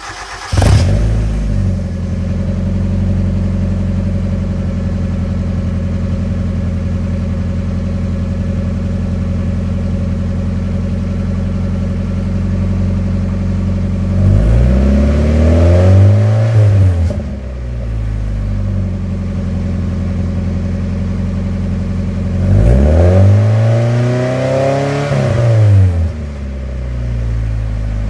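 1997 Mazda Miata NA8's 1.8-litre four-cylinder, breathing through a custom center-exit exhaust with a resonator and a single-in, dual-out muffler, flares as it catches on a cold start and settles into a steady idle. About halfway through and again near the end it is revved lightly, the pitch rising and falling back to idle over a few seconds each time.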